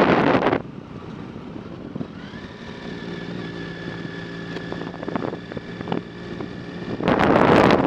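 Wind buffeting the microphone during a bicycle ride drops away about half a second in. In the quieter stretch a steady motor-vehicle engine hum is heard, with a few light clicks, and then the wind noise comes back about a second before the end.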